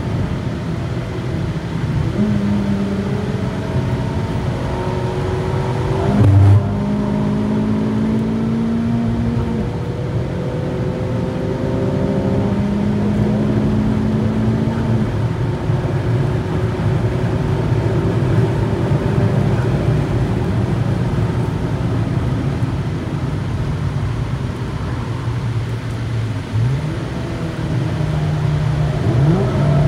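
Honda Civic Type R's four-cylinder engine pulling hard on track, its revs climbing and dropping again and again through the gear changes over steady road noise. A brief loud thump comes about six seconds in.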